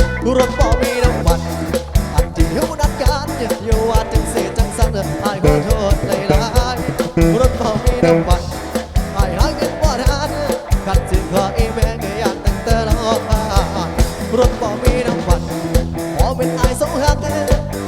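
Live band playing an instrumental break of an up-tempo Thai Isan pop song, with drums keeping a steady driving beat under bass and melody instruments.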